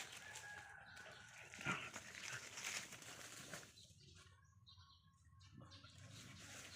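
Dogs playing: faint scuffling, with one short, louder sound about one and a half seconds in.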